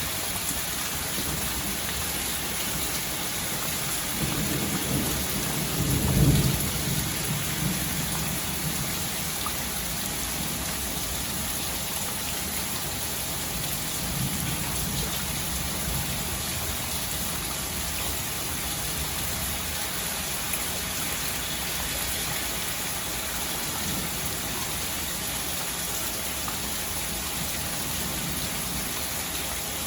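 Steady rain hiss, with a low rumble of thunder that swells and peaks about six seconds in, and a fainter rumble around fifteen seconds in.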